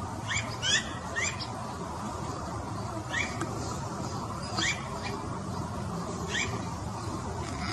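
A small animal squeaking: about six short, high, upward-sliding squeaks at uneven intervals, clustered near the start, over a steady background hiss.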